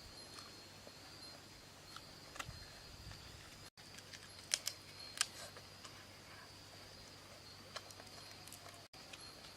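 Quiet outdoor ambience with a steady high-pitched insect drone, broken by scattered small clicks and taps, two sharper ones near the middle.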